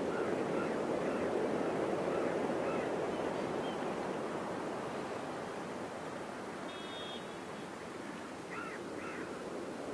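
Steady wash of surf breaking at a river mouth. Faint short bird calls sound over it several times, a pair of them near the end.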